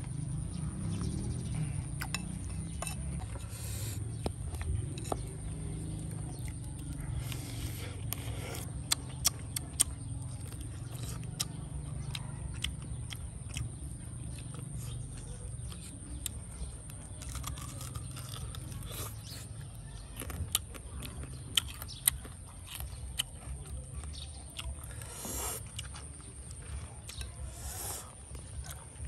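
Someone chewing and biting grilled pork hock close to the microphone, with sharp crunchy clicks scattered throughout and a few louder snaps near a third of the way in and again about two thirds in.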